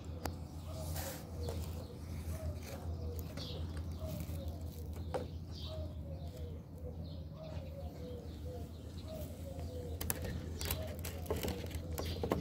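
A bird calling over and over in short falling notes, about two a second, over a steady low hum, with a few sharp clicks near the end.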